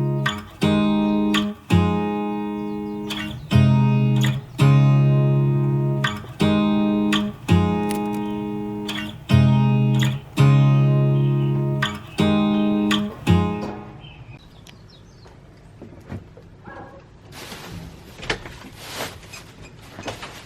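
Acoustic guitar music: chords plucked about every second and a half, stopping about two-thirds of the way through. After it come quiet, scattered rustles and knocks.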